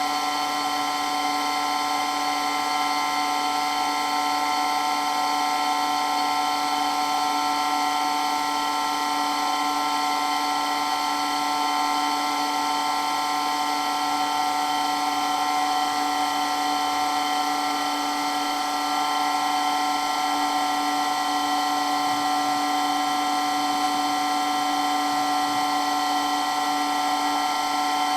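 Water pump running steadily, a loud, constant whine made of several high tones that does not change.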